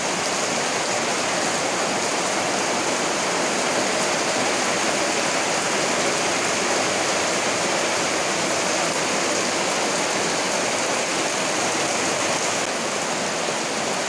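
Heavy rain pouring steadily onto a paved yard, puddles and potted plants, a dense, even hiss of falling water.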